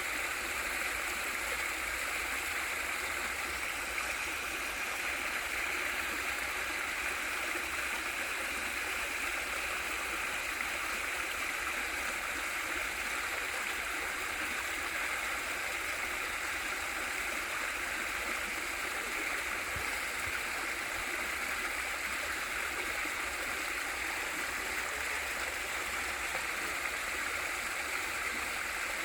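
A small waterfall pouring into a mountain stream, a steady rushing of water with gurgling, unchanging throughout.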